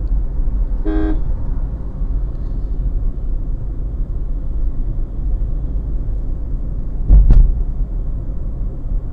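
Steady low road and engine rumble of a car being driven, heard from inside the cabin. A short horn toot sounds about a second in, and a brief loud thump comes about seven seconds in.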